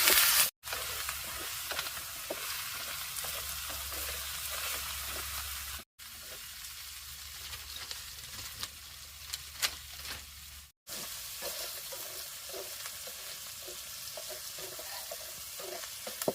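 Frog meat sizzling as it fries in a hot pan, stirred now and then with light clicks of the utensil. The sizzle drops out briefly three times.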